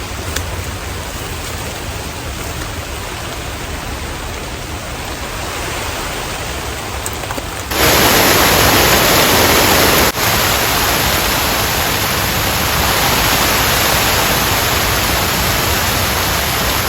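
Heavy rain falling in a steady hiss, which turns abruptly louder about eight seconds in.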